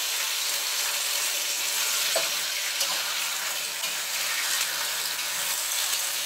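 Sliced pork offal and young ginger sizzling steadily in hot oil in a wok, freshly added and being stirred. A metal spatula scrapes and clicks against the pan a few times.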